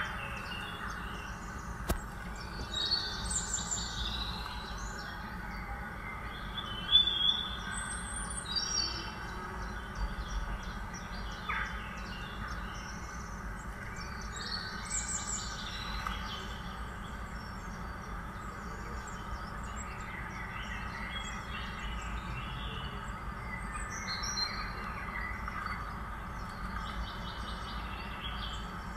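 Birds chirping and calling on and off over a steady background hiss.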